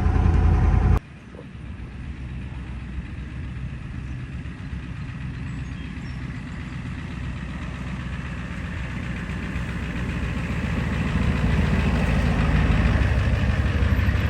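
A 1991 Ford F-350's 7.3-litre IDI diesel V8 running loud in second gear. It is cut off abruptly about a second in and followed by a quieter, steady diesel engine rumble that slowly grows louder.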